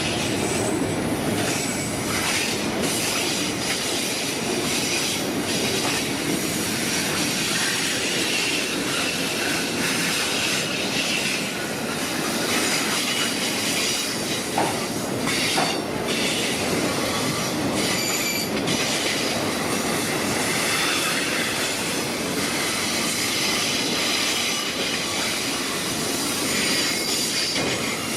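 Manifest freight train rolling past: steel wheels on the rails make a steady noise with clicking over the rail joints and a faint high wheel squeal.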